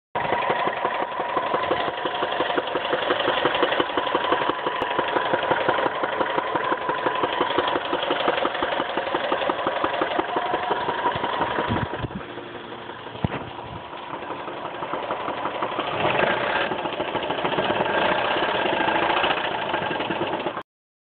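2005 Mazda 6 2.3-litre four-cylinder engine running with a fast, steady ticking knock, which the owner cannot place as lifter noise or a blown motor. The sound drops for a few seconds about twelve seconds in, with one sharp click, then comes back louder.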